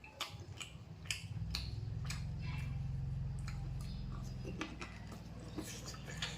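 A person eating chicken leg pieces up close, with scattered sharp clicks and smacks of chewing and tearing the meat. A steady low hum runs underneath.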